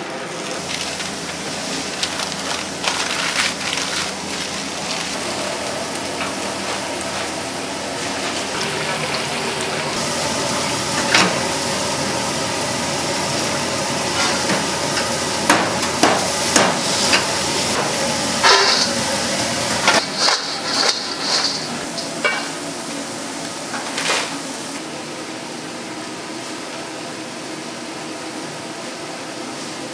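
Food frying and sizzling, with short clanks and scrapes of metal utensils scattered through, most of them between about ten and twenty-five seconds in.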